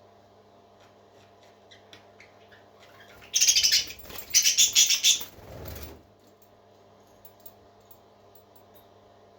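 Baby parrot giving two loud, raspy, rattling calls a little over three seconds in, each under a second long, over a faint steady hum.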